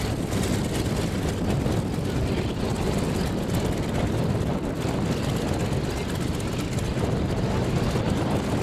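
Douglas DC-3 radial piston engine running steadily with its propeller turning, a loud, even rumble.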